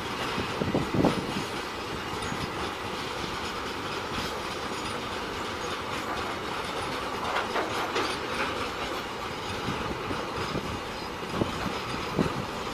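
Train running along the track: a steady rumble with wheels clacking over the rail joints, and a few louder knocks about a second in, around eight seconds and near the end.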